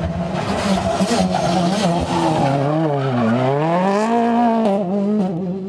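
A World Rally Car's 1.6-litre turbocharged four-cylinder engine at full race pace. Its revs drop to a low point about three seconds in, as it slows for a corner, then climb again as it accelerates away, with tyre noise over it.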